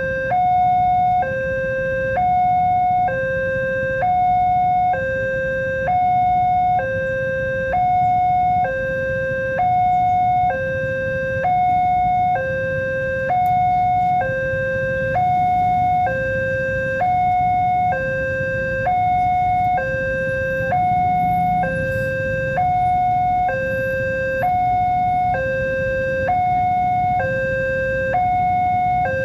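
Railway level-crossing warning alarm sounding a two-tone electronic hi-lo signal, alternating about once a second, over a low rumble.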